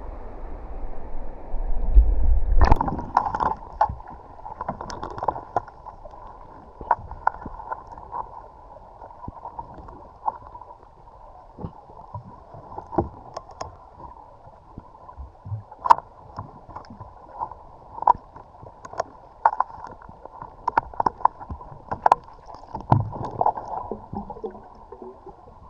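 Muffled water sloshing and gurgling, with many scattered sharp clicks and knocks and a louder splash about three seconds in.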